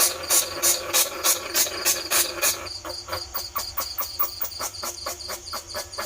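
Bandicoot rat squeaks played as a trapping lure call: a rapid, even run of short, shrill chirps, about three a second, that quickens to about five a second and turns thinner and higher a little before the middle.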